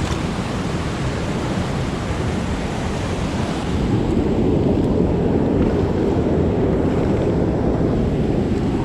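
Steady rushing roar of a waterfall pouring into a creek pool. About four seconds in it turns deeper and fuller.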